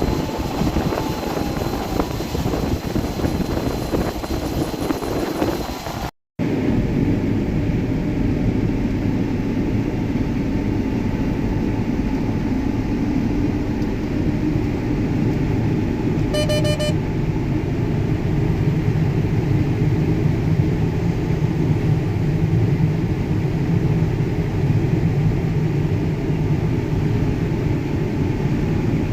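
John Deere S680 combine harvester running steadily under harvest load, a continuous machine drone. There is an edit cut about six seconds in, and a short beep about halfway through.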